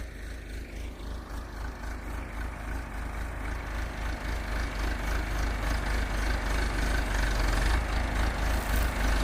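Engine of a heavy vehicle running steadily, growing gradually louder.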